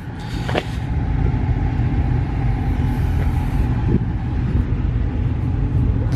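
Car engines idling at a car meet: a steady low rumble.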